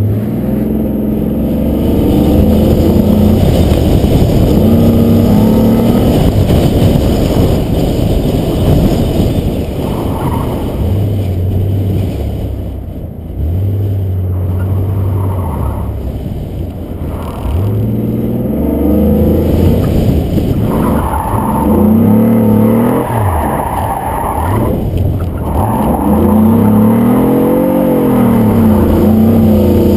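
Chevrolet Malibu's engine pulling hard from a launch, then revving up and down over and over as the car accelerates and lifts between cones on an autocross course, with tire squeal at times.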